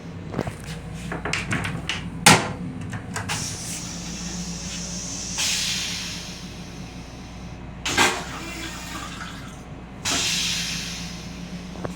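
Metro-North M7 railcar restroom toilet flushing: two short bursts of rushing water hiss that die away, with clunks and a sharp knock about two seconds in. A steady hum of the moving railcar runs underneath.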